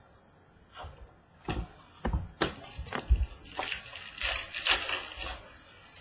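Trading cards and pack wrappers being handled: several sharp taps and clicks, then a crinkling rustle for about a second and a half past the middle.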